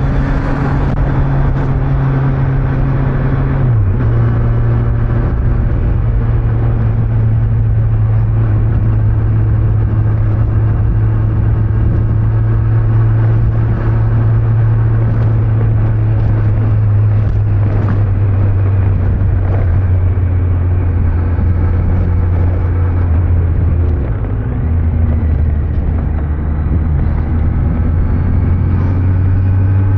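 Kawasaki Z900's inline-four engine on its stock exhaust running at a steady cruise, with road and wind noise. The engine note drops briefly about four seconds in and settles lower, and dips again briefly around twenty-four seconds.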